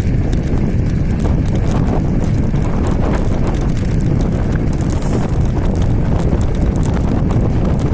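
Wind buffeting the microphone with steady low road rumble and a run of small clicks and rattles while riding an electric scooter driven by a hoverboard hub motor.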